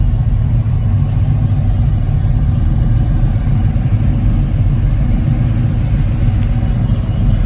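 A motor vehicle running: a steady, loud low rumble of engine and road noise, with no change in pitch.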